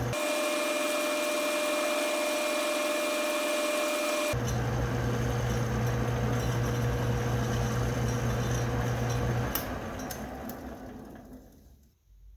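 Metal lathe running with a steady hum, then switched off about nine and a half seconds in and winding down to a stop.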